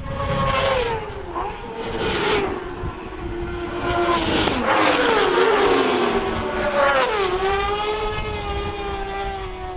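Racing motorcycles' engines at high revs as several bikes go past one after another, each engine note dropping sharply in pitch as it passes, with overlapping engines rising and falling through gear changes.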